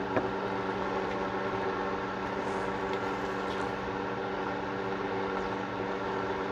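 A steady machine hum with several fixed tones, like a running fan or appliance, holding level throughout, with one faint click just after the start.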